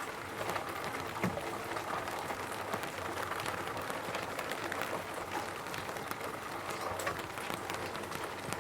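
Rain falling steadily on a roof, a continuous patter made of many separate drop ticks, with a slightly louder knock about a second in.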